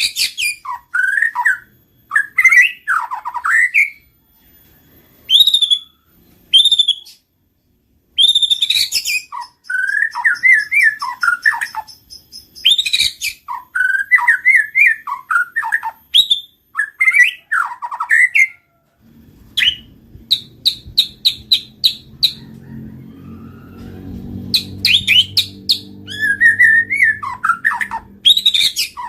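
White-rumped shama singing: short bursts of varied whistled phrases that rise and fall, with sharp high notes and quick runs of chips, separated by brief pauses. A faint low hum comes in during the last third.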